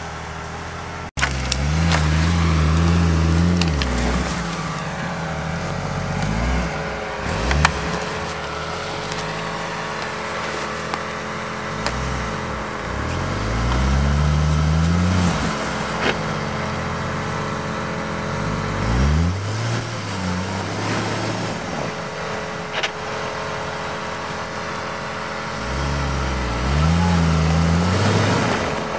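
Off-road 4x4's engine revving hard in several separate bursts, each rising in pitch and then falling back to a lower running note, as it strains in deep snow.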